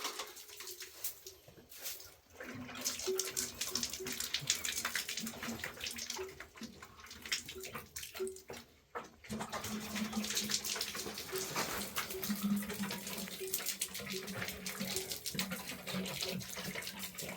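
Water running and splashing, with a faint low hum underneath.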